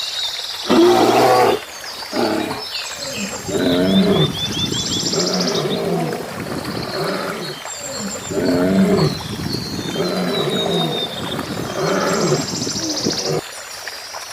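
A large animal giving a series of deep, pitched calls, roughly one every one to two seconds, with birds chirping high above them.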